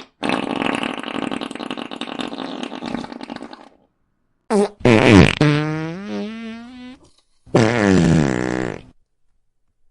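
A run of fart sound effects. First comes a long raspy one lasting about three and a half seconds. After a brief pause there is a quick blip, then the loudest one: pitched, dropping in pitch and ending in a wobbling, quavering tail. A shorter one that falls in pitch comes near the end.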